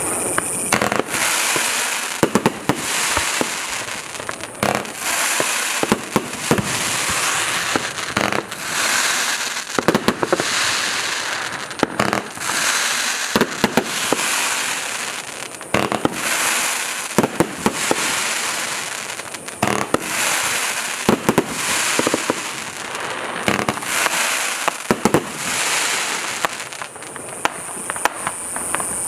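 49-shot fan-pattern display firework cake firing in steady succession, about one shot a second: each tube launches with a sharp thump and the stars burst into hissing, crackling time-rain and coconut effects.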